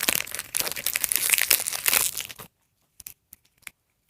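Small plastic blind-bag wrapper being torn open and crinkled by hand. Dense crackling for about two and a half seconds, then a few faint crinkles.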